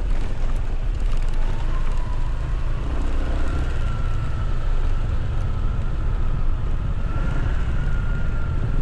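Motorcycle running on the move, with heavy wind rumble on the microphone and a faint whine that drifts slowly up and down in pitch.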